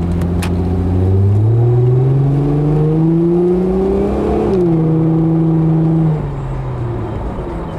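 A 2002 Chrysler Prowler's 3.5-litre V6 heard from inside the car as it accelerates. The engine note climbs steadily for about three seconds and drops as the automatic shifts up, about four and a half seconds in. It then quietens as the throttle eases, about six seconds in.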